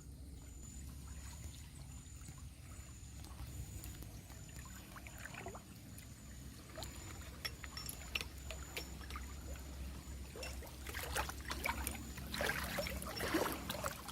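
River water splashing and trickling over a steady low rumble, with scattered small splashes and a busier patch of splashing near the end.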